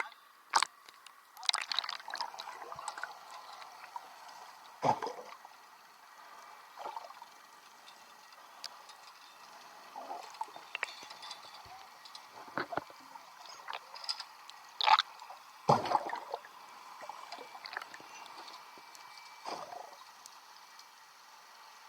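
Water splashing and gurgling in irregular bursts, with a few sharper splashes standing out.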